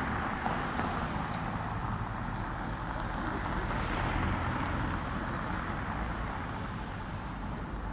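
Road traffic on a city street: a steady rush of cars going by.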